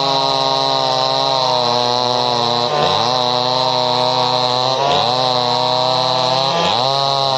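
Two-stroke gasoline chainsaw running at high revs. Its pitch dips sharply and recovers four times, about every two seconds.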